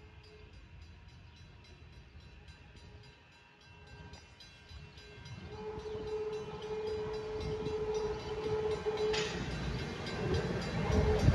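Passenger train approaching: quiet at first, then its rumble builds steadily from about halfway in. A long steady single-pitched tone runs over the rumble, with a sharp clank near the end as it gets loud.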